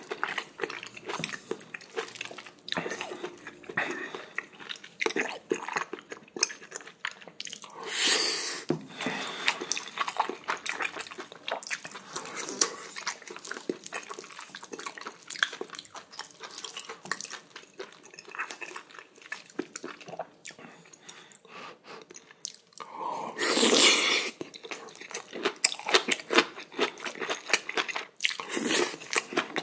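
Close-miked chewing and biting of braised kimchi, beef large intestine and rice: a steady run of short mouth clicks and chewing sounds, with a few louder, longer sounds about eight seconds in and again around twenty-four seconds in.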